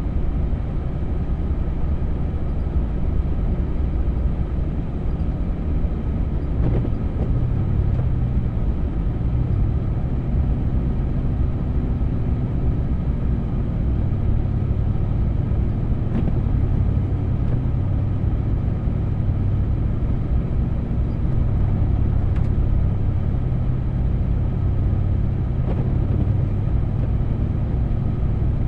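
Vehicle driving through deep snow: a steady low engine and road rumble, with the engine's hum rising a little about seven seconds in and then holding steady. A few faint knocks come through now and then.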